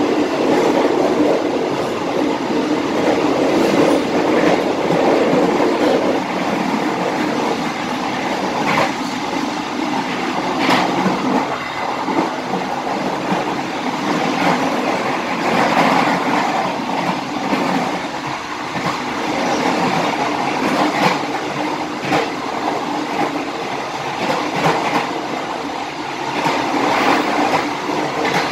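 Passenger train running along the track, heard from its rear coach: a steady rumble of wheels on rail with a few scattered clanks.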